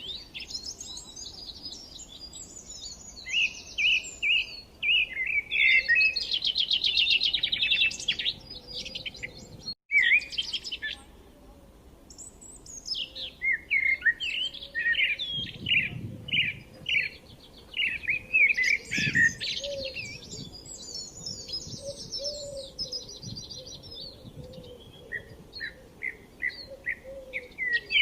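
Songbirds singing: a busy run of varied chirps and quick trills, one song after another, with a momentary break about ten seconds in.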